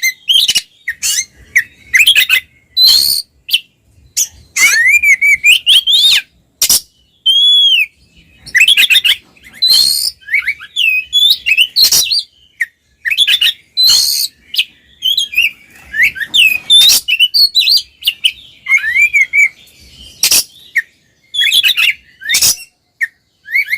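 Oriental magpie-robins singing loudly in full song: a rapid, varied run of whistled notes sliding up and down, broken by short harsh chattering notes.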